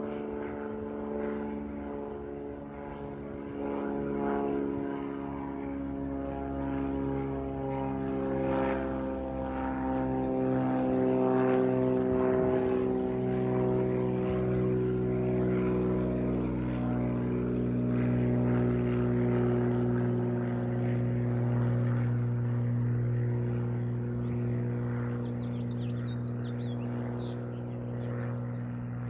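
Cessna U206G Stationair's six-cylinder piston engine and propeller running at takeoff power, a continuous droning hum. Its pitch shifts over roughly the first dozen seconds and then holds steady.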